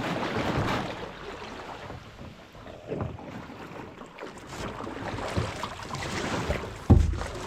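Canoe being paddled and manoeuvred on a river: paddle strokes and water sloshing against the hull, with wind on the microphone. A few light knocks, then a loud low thump near the end.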